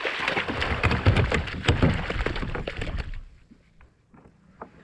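Rustling and a rapid clatter of knocks and clicks on a kayak as a freshly landed snapper is handled, for about three seconds; then it goes mostly quiet with a few faint clicks.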